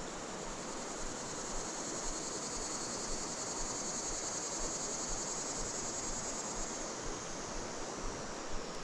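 Steady high-pitched chorus of insects, crickets or similar, over an even rushing noise of flowing creek water.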